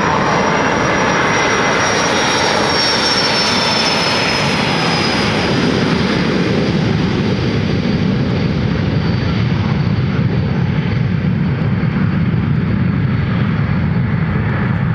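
Cessna Citation 650 business jet's twin turbofan engines at takeoff power, passing by. A high fan whine glides slowly down in pitch over the first several seconds, then the high sound fades and a low rumble takes over.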